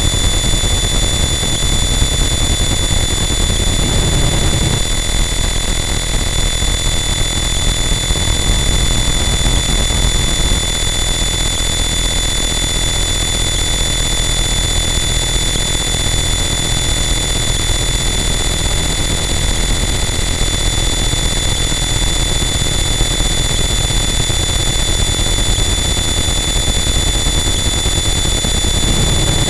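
Harsh noise wall: a loud, unchanging mass of distorted static with a heavy low rumble and several steady high-pitched whines over it, and a brief low swell about four seconds in.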